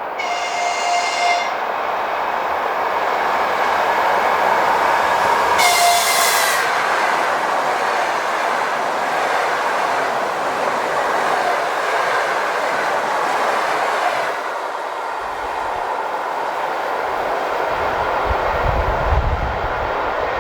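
ЭП2Д electric multiple unit passing, sounding its horn in two short blasts about five seconds apart over the steady rush of its wheels on the rails. The running noise dies away about fourteen seconds in.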